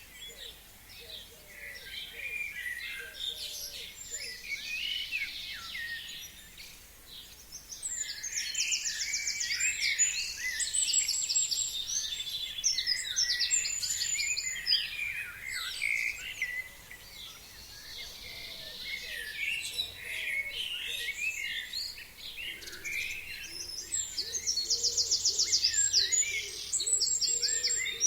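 Forest songbirds chirping and singing in spring. One bird's loud song, a fast run of repeated notes ending in a short flourish, comes twice: about eight seconds in and again near the end.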